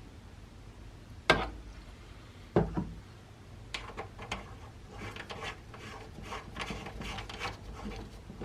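Two sharp knocks about a second apart, then a run of light clicks and scraping as small objects are handled.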